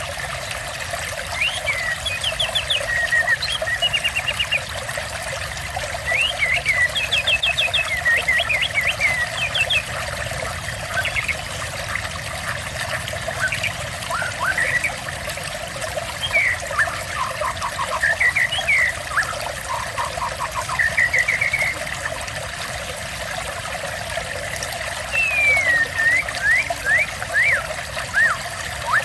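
Steady trickling water with a songbird singing over it: short whistled phrases and quick trills, coming in bursts every few seconds.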